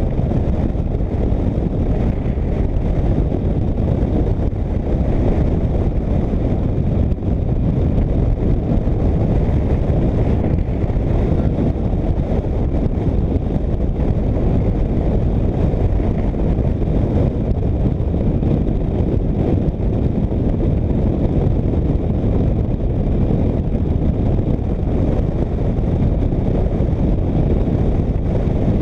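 Steady wind rush on the microphone with the drone of a motorcycle underway at road speed.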